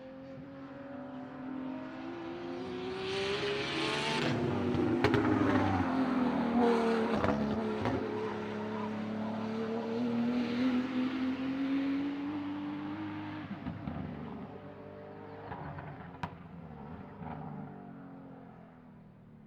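BMW E36 time-attack race car's engine at racing pace, getting louder as it comes closer. Its pitch drops in the middle, then climbs again as it accelerates, and the sound fades near the end.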